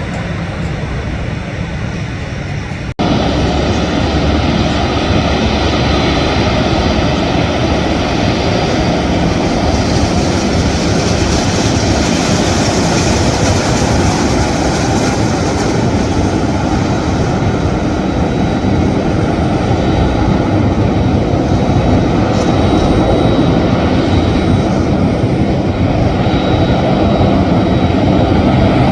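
Boeing 737 jet engines running with a loud, steady rushing noise. About three seconds in there is an abrupt break, after which the sound comes back louder and holds steady, with a faint thin whine later on.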